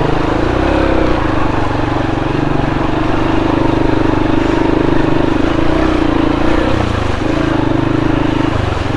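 Motorcycle engine running steadily at low speed under light throttle, its pitch rising and dipping a little.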